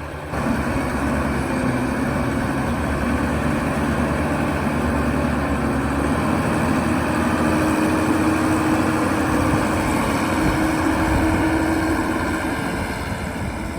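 Diesel engine of a New Holland TV140 bi-directional tractor running steadily while loading corn silage for the feed mixer. Its engine note rises a little about seven seconds in and eases back near the end.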